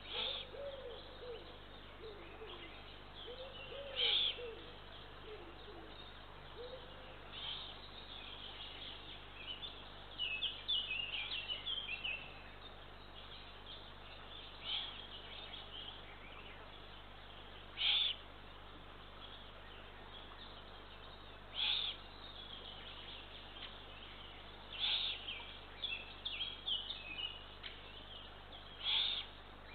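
Eurasian eagle owl chicks giving short, harsh begging calls, one every three or four seconds, with bursts of chirping between them.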